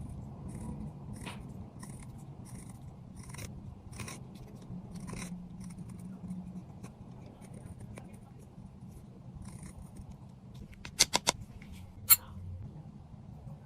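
Close-up handling sounds of makeup repair: light scraping and ticking of a tool working on cosmetic product, then a quick run of four sharp clicks about eleven seconds in and one more sharp click a second later.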